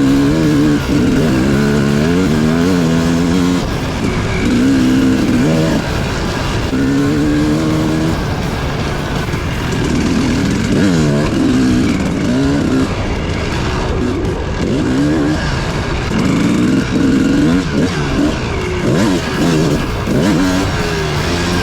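250cc dirt bike engine riding on trail, its pitch climbing and dropping again and again as the throttle is worked and gears change, with wind rushing over the microphone.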